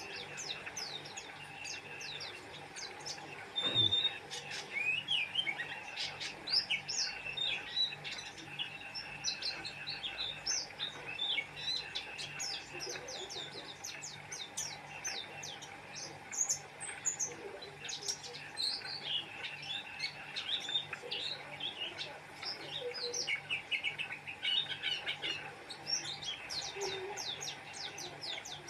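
A white-eye (pleci) singing continuously in a rapid, high twittering stream of short chirps and quick glides. A brief knock sounds about four seconds in, over a faint steady background hum.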